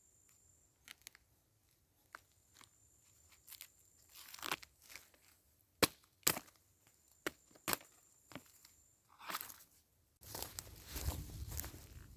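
Dry twigs and brush snapping and crackling in scattered sharp snaps as they are handled, then a denser rustling from about ten seconds in.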